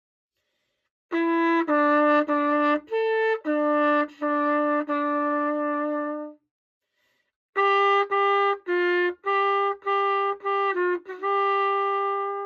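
Old pocket cornet, freshly cleaned and reassembled, playing a trumpet part of a classical piece: two phrases of separately tongued notes with a pause of about a second between them, the second phrase a little higher.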